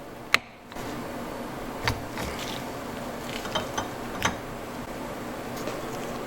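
Light, scattered clicks and clinks of hand tools and parts being handled. One sharp click comes near the start, then a few smaller knocks about two to four seconds in.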